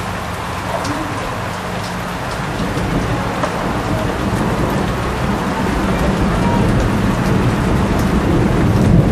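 Steady rain falling on pavement, with scattered drip ticks. A low rumble swells and grows louder over the second half.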